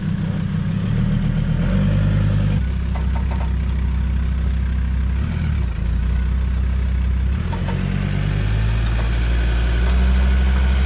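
Off-road vehicle's engine working at low speed while rock crawling, its note stepping up and down several times as the throttle changes, with a few faint knocks.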